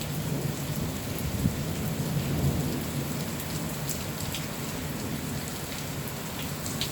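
Thunderstorm downpour: heavy rain pouring down with sharp drop hits, over a low, continuous rumble of thunder.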